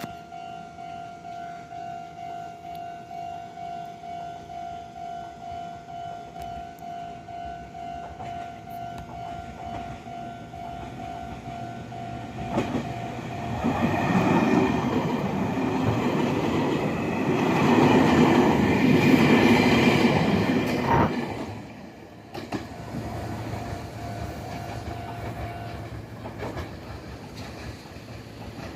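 A level-crossing bell dings steadily, about two to three times a second. Partway through, a Meitetsu 300 series electric train runs past over the crossing for about eight seconds, loudest near the end of its pass, and its noise cuts off sharply. The bell keeps ringing for a few seconds more and then stops.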